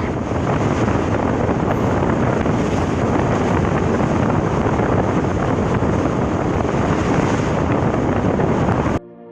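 Loud, steady rushing noise of a moving passenger train, with wind buffeting the microphone. It cuts off suddenly near the end.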